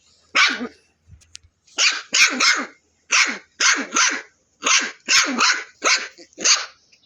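A dog barking: one bark, then a quick string of about a dozen sharp barks in twos and threes.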